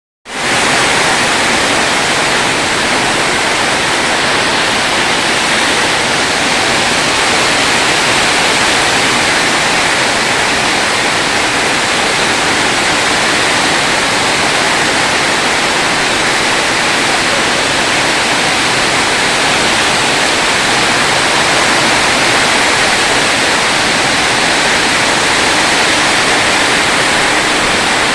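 Steady, unbroken rushing of water, loud and even throughout.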